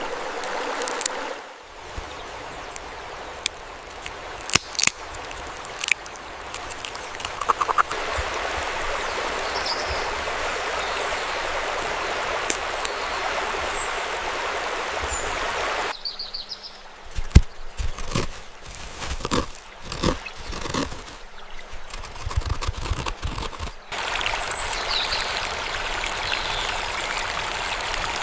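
Steady rush of running water with a few short high chirps. About halfway through it breaks off abruptly into several seconds of scattered clicks and knocks, then the water sound returns near the end.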